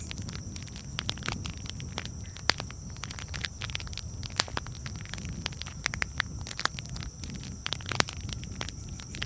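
Campfire crackling: irregular sharp pops and snaps of burning wood over a low steady rumble, with two louder pops, one about two and a half seconds in and one near the end.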